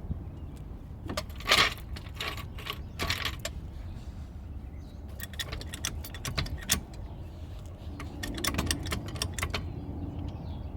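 Light metallic jingling and clinking of small loose metal pieces in two bursts, the first about a second in and the second around the middle, over a steady low rumble.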